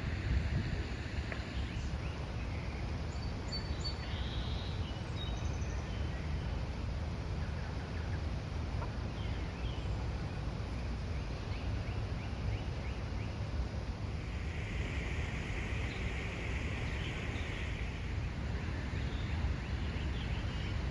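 Outdoor ambience of a steady low rumble with faint bird calls: a few short high calls about four seconds in, and a hissy call-like sound lasting several seconds a little past the middle.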